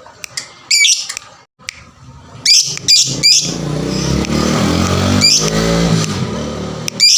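Lovebird giving sharp, high chirps in short clusters. From about midway, a motor vehicle's engine rises and falls beneath it.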